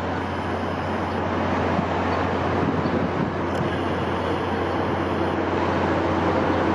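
Steady wind noise, an even rushing with a constant low rumble underneath.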